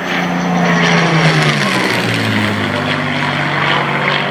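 Supermarine Spitfire's V12 piston engine in a low flyby, loud, its pitch dropping sharply about two seconds in as the plane passes.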